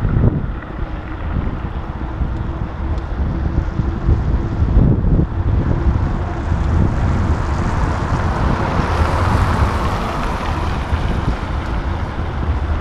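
Wind buffeting the microphone of a moving bicycle, with city traffic noise that swells about seven seconds in and eases off near the end.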